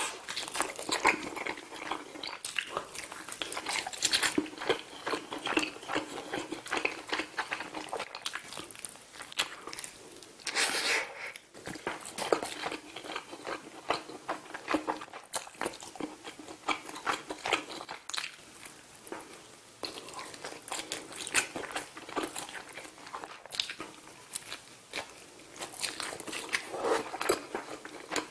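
Close-miked biting and chewing of grilled Pacific saury: a steady run of small crunches and crackles as the crisp skin and flesh are bitten off and chewed, with a louder bout of crunching about ten seconds in.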